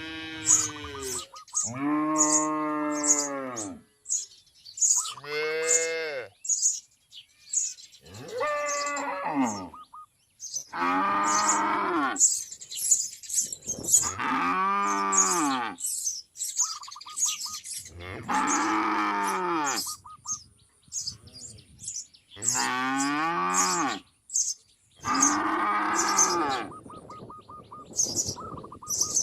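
A series of about eight long, low, moo-like calls, each rising and then falling in pitch, with short high bird chirps between and over them.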